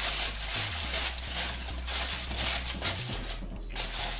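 Aluminium foil crinkling as it is pressed over a pot of freshly drained rice, an irregular crackly rustle.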